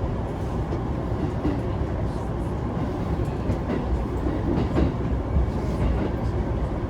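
Running noise inside a Keihin-Tohoku Line electric commuter train between stations: a steady low rumble of wheels on rail, with a few faint ticks scattered through it.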